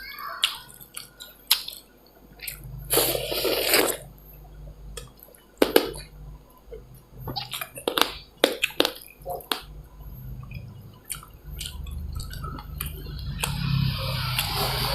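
Close-miked eating of dal and rice: wet squishing and chewing with scattered small clicks, and a longer wet sound about three seconds in.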